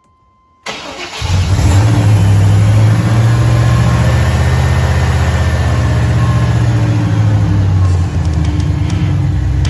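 A 1999 Chevrolet K1500 Suburban's engine starts under a second in and settles into a steady, loud run.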